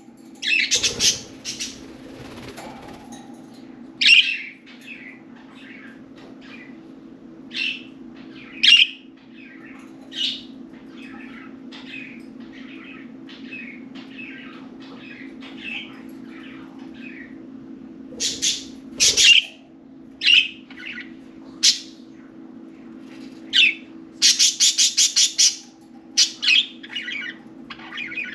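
Several budgerigars chirping and chattering in short, high calls throughout, with a fast run of rapid chatter about three-quarters of the way through. A steady low hum runs underneath.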